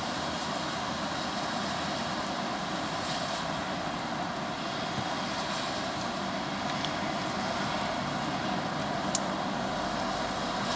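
Steady hiss of falling rain, with one brief sharp tick about nine seconds in.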